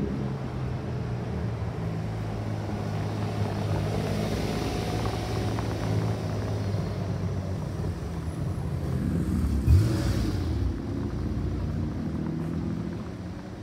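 Car engine running at low revs with a steady low drone. About ten seconds in comes a short, loud burst of noise with a sharp spike.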